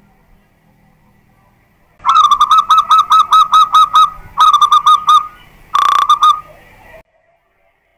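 Zebra dove (perkutut) singing: a rapid run of about ten clipped cooing notes, a second shorter run, then a brief final phrase. The song cuts off abruptly near the end.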